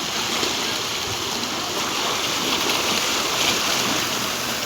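Steady rushing wash of sea surf, an even noise with no single strikes standing out.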